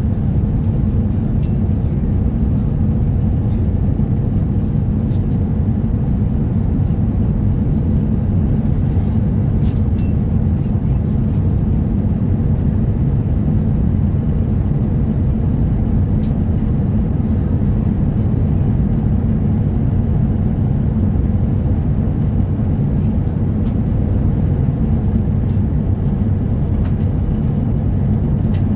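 Steady cabin noise inside an Airbus A350-900 airliner: the even roar of its Rolls-Royce Trent XWB engines and airflow, unchanging throughout, with a few faint ticks over it.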